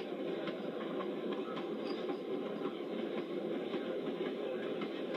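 Passenger train car rolling along the track: a steady rumble of wheels on rail, with faint scattered clicks.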